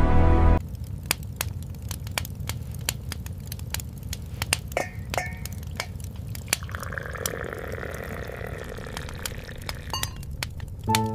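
Irregular sharp clicks and crackles over a low steady rumble, with a couple of brief glassy clinks midway. Music stops just after the start and comes back near the end.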